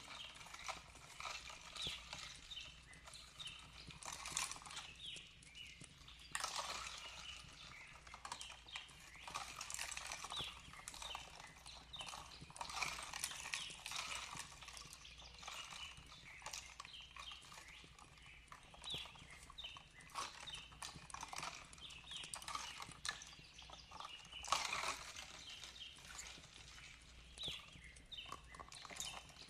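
Fireplace crackling with irregular snaps and pops, denser and louder in short spells, over a soft steady hiss of flowing water. Birds chirp faintly in the background.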